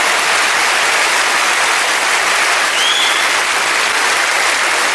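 Large live audience applauding steadily at the end of a song.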